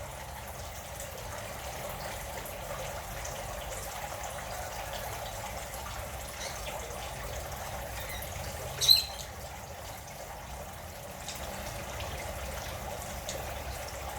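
Steady trickle of running water, with one short, sharp high sound about nine seconds in.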